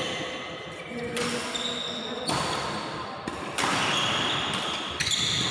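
Badminton rally in a sports hall: a racket strikes the shuttlecock about once a second, with short high squeaks of shoes on the court floor and players' voices.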